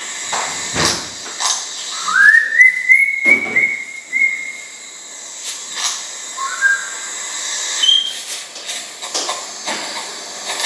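Crested wood partridge (roul-roul) giving rising whistled calls: one long whistle that sweeps up and is held, then a shorter rising whistle and a brief high note later. Scattered short knocks sound in between.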